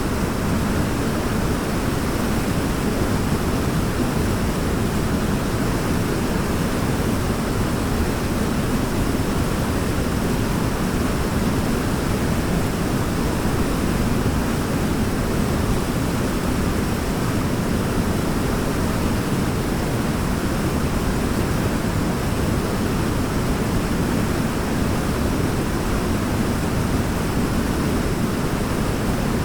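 Waterfall: a steady rush of falling water, even and unbroken, with most of its weight low and deep.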